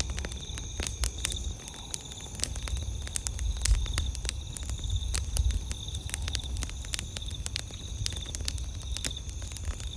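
Campfire crackling, with frequent sharp, irregular pops and snaps of burning wood over a low rushing of flames. A steady high chirring of night insects runs underneath.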